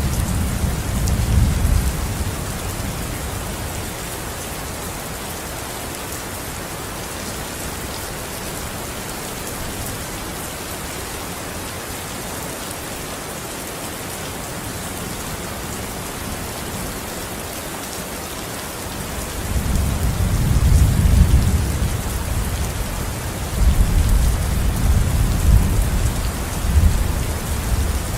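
Steady heavy rain falling on surfaces, with low rolling thunder. One rumble fades out in the first couple of seconds, and two more come in about two-thirds of the way through, the second lasting to the end.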